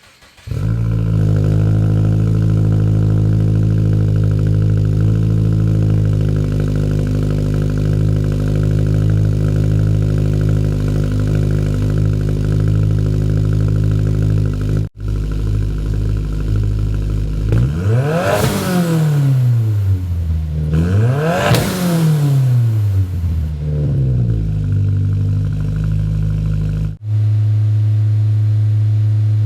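A 2022 Subaru WRX's turbocharged 2.4-litre flat-four idles steadily through a Noble titanium dual-exit cat-back exhaust with straight-through mufflers. About halfway through it is revved twice, the pitch climbing and falling back each time, then it settles back to idle.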